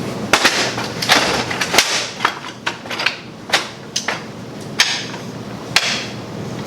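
A string of irregular knocks, taps and short scraping clatters from hands-on repair work, about a dozen in all at uneven spacing.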